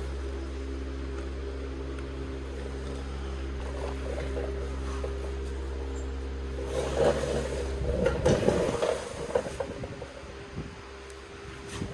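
A steady mechanical hum, like a motor running, cuts out about eight seconds in, with knocking and clatter around the time it stops.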